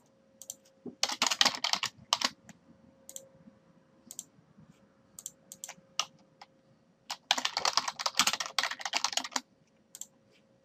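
Typing on a computer keyboard: two quick runs of keystrokes with a few scattered key presses between them.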